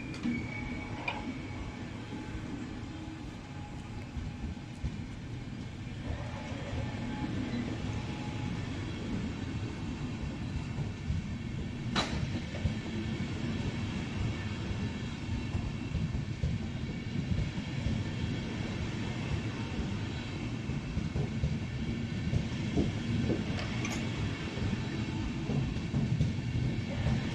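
A train rolling past on the rails with a steady low rumble that slowly grows louder, and a single sharp click about halfway through.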